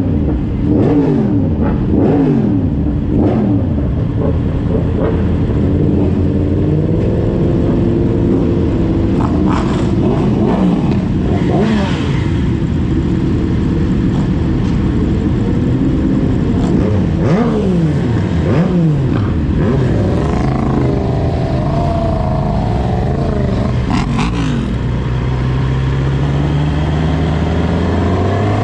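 Inline-four sport motorcycle engines accelerating hard, their pitch climbing and dropping back again and again with each gear change, several bikes overlapping. The engines settle into a steadier drone near the end.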